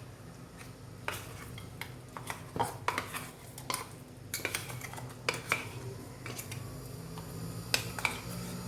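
Spoon clinking and scraping against a steel mixer-grinder jar and bowl, scooping out coarsely ground soaked tur dal: a run of irregular light metallic clinks.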